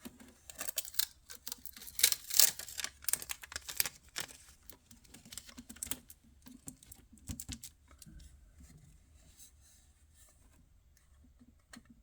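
Quick, irregular clicks and taps of a small wooden dollhouse door being handled and worked loose from its frame. The taps are dense for about the first four seconds, then sparser and fainter.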